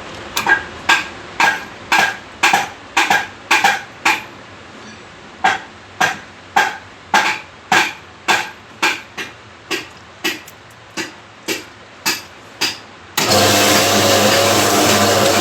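Repeated sharp metal-on-metal strikes that ring, about two a second with a short pause near the start. About thirteen seconds in, a loud steady sound with a wavering tone cuts in suddenly.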